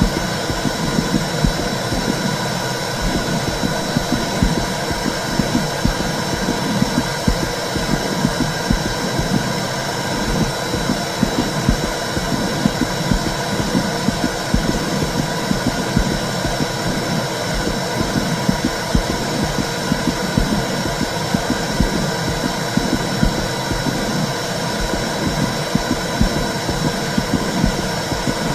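Womb sound for soothing a baby: a steady, low rumbling whoosh that swells and fades in a slow rhythm, with a thin, steady high tone above it.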